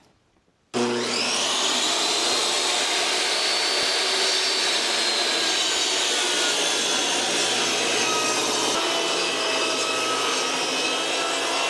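A new DeWalt 10-inch job site table saw switched on: its motor starts suddenly, spins up with a rising whine, then runs steadily at full speed.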